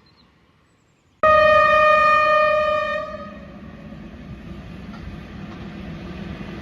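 Freight train's horn sounding once, starting abruptly about a second in: a single-pitched blast that fades out over about two seconds. A steady low rumble of the approaching train on the track follows.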